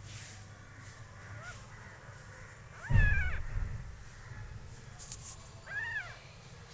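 Newborn kittens mewing: faint high mews about a second and a half in, then a louder rising-and-falling mew with a dull bump about three seconds in, and another near the end.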